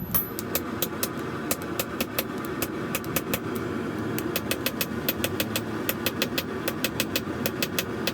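Blacksmith's hammer striking hot steel on an anvil in a steady run of short, sharp blows, about three a second, some in quick pairs, over a steady mechanical drone.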